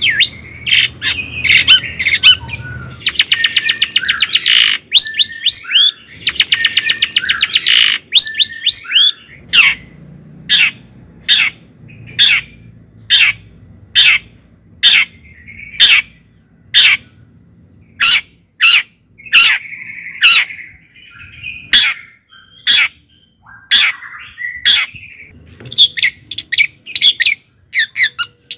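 A bird calling loudly: two bursts of rapid chattering trills in the first eight seconds, then short, sharp squawks repeated about once a second.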